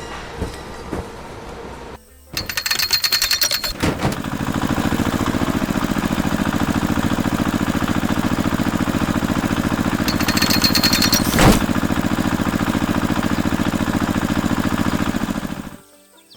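A machine running with a rapid, even mechanical rattle, with two harsher clattering bursts and a sharp knock about eleven seconds in; the rattle cuts off near the end.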